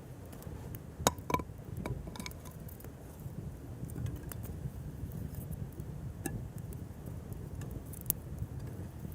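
Wood fire crackling: scattered sharp pops and snaps over a low steady rumble, the loudest pops a little after a second in and again near the end.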